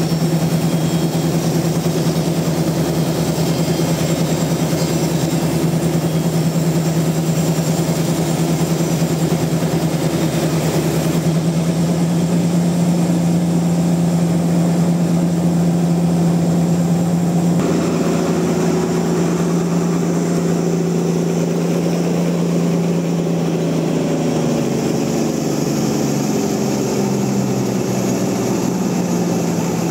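Sawmill machinery running steadily with a deep engine hum. The sound changes abruptly twice, and near the end a tone slides down in pitch.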